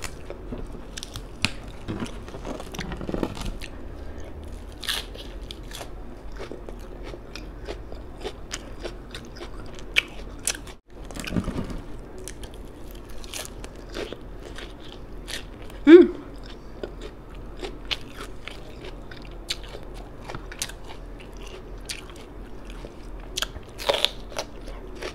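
Close-up eating sounds: wet chewing and crunching of lettuce and rice with many small mouth clicks, and a loud crisp bite into a raw orange pepper near the end. About two-thirds of the way in comes a brief, loud pitched sound, the loudest moment.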